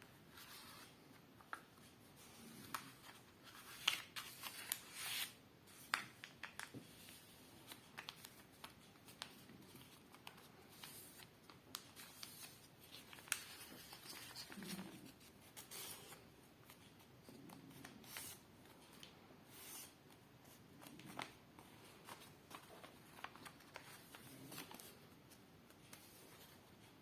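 A sheet of paper being folded and creased by hand: quiet rustling broken by irregular sharp crinkles and clicks.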